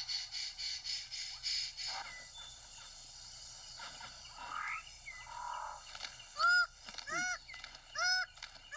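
Rainforest birds calling. A pulsing high trill in the first two seconds and scattered calls after it give way, about six seconds in, to a loud run of repeated arched, nasal calls about once a second.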